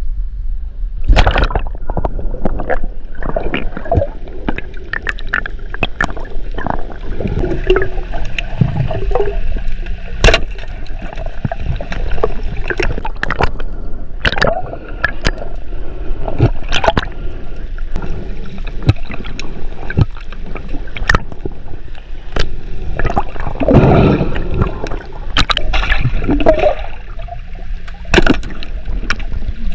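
Water sloshing and gurgling close to the microphone, with a low rumble and many irregular sharp clicks and knocks.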